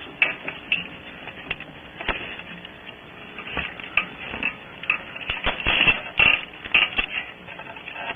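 Handling noise close to the nest-cavity camera's microphone: scattered clicks and knocks with rough scraping, busier and louder over the last few seconds.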